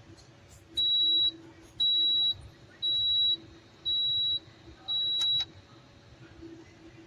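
Espresso machine's electronic signal beeping: five high-pitched beeps, each about half a second long, about one per second.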